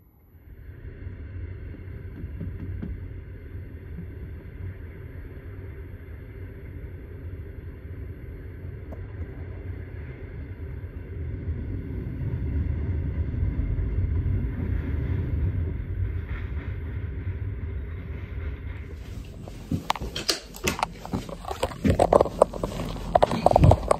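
Train running: a steady low rumble that grows louder toward the middle, then sharp clattering knocks over the last few seconds.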